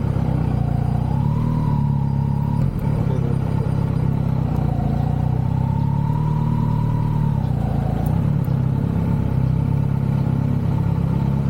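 Kawasaki Z900's inline-four engine running at a steady pitch. A fainter higher tone rises and falls twice over it.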